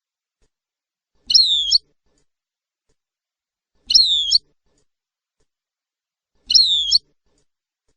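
A short bird call, about half a second long, repeated three times roughly every two and a half seconds. Each call is the same, with a high falling note, and there is silence between the calls.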